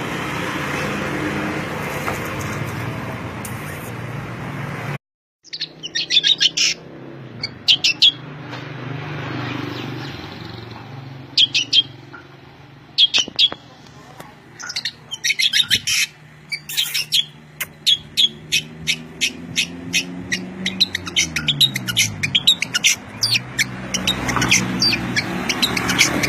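Small songbirds chirping in quick high trills and bursts, growing denser toward the end, over a low steady hum. The first five seconds are a noisy hum that cuts off abruptly before the chirping starts.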